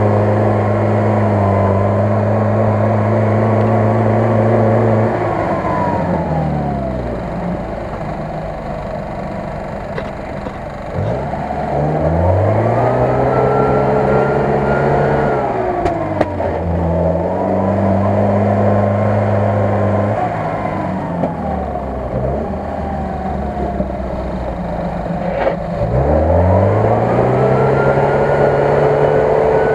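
UAZ-469 jeep's engine under heavy load, pushing through deep mud and water. The revs surge and ease off again and again: held high at first, falling away, then climbing and dropping back three more times.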